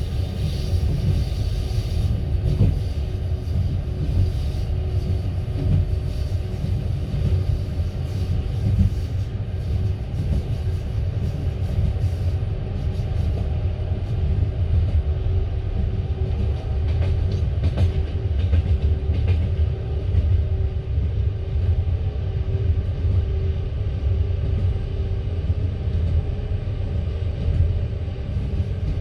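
Passenger train carriage running along the track: a steady low rumble of the wheels on the rails, with scattered clicks of wheels over rail joints and a faint steady hum.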